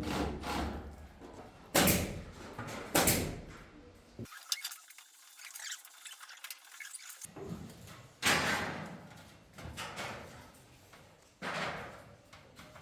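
About four heavy knocks on wood at irregular spacing, each dying away in the room's echo, with softer knocks between: the sounds of carpentry work on a ceiling frame.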